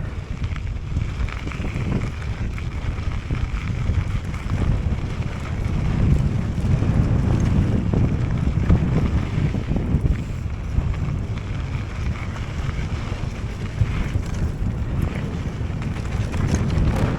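Wind buffeting the microphone of a bike-mounted or rider-worn camera during a mountain bike ride, giving a steady, low rumbling rush.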